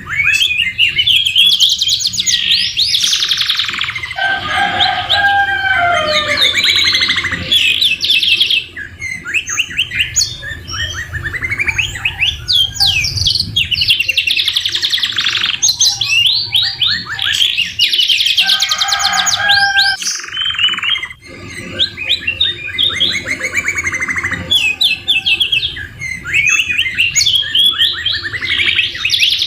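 Domestic canary singing a long, continuous song of rapid trills, chirps and sweeping whistles, its phrases filled with imitations of the white-rumped shama. The song dips briefly about a third of the way in and again about two thirds in, over a steady low hum.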